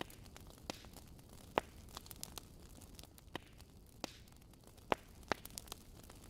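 Wood fire crackling: irregular sharp pops and snaps over a low steady hiss, with a couple of louder pops, one about a second and a half in and one near five seconds.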